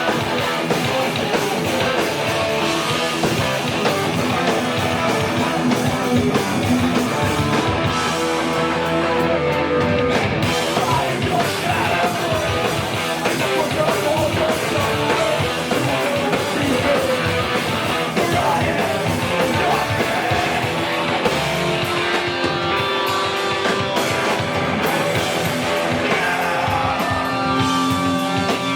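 Live loud rock band, punk in style, playing on stage: distorted electric guitars, bass and drums, with vocals that the recogniser did not catch.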